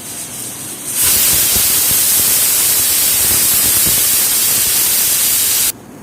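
Pressure cooker whistling: a loud hiss of escaping steam starts about a second in and cuts off suddenly near the end. It is one of the two whistles that mark the rice as cooked.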